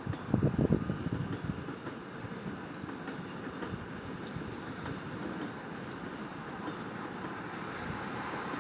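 Steady rumble of a passing vehicle, building slightly toward the end, with a short burst of voices in the first second.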